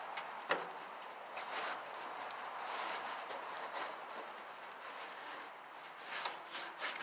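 Scrubbing the soapy surfaces of an old propane grill by hand: irregular scratchy rubbing strokes, with a sharp knock about half a second in.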